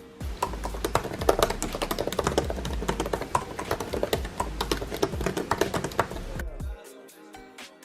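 Fast typing on a computer keyboard: a dense, rapid run of key clicks that stops about a second before the end, over background music.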